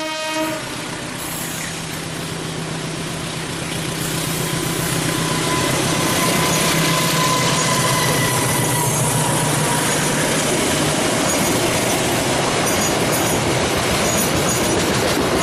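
Train running on the track: a steady noise of wheels with a low engine hum, growing louder about five seconds in. The last of a horn blast ends just after the start.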